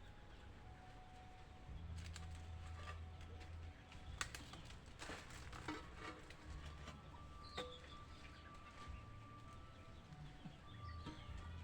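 Faint scattered knocks and clatter, in keeping with an old chicken coop being pulled down, over a low rumble that comes and goes.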